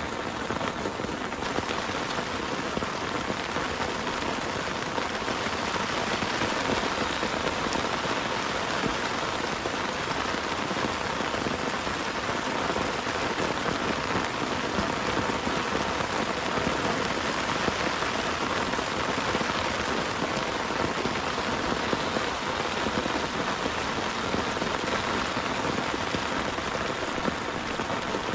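Heavy rain falling steadily on a surface, a dense, even patter with no thunder.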